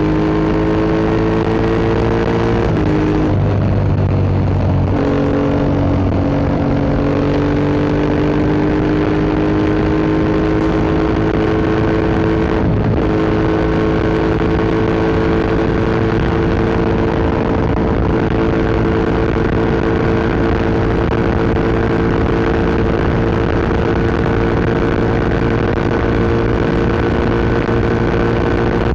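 Yamaha MT-07's 689 cc parallel-twin engine running through an Akrapovic Racing Line exhaust while the bike is ridden. The revs drop around three to five seconds in and break briefly near thirteen seconds, then rise slowly and steadily.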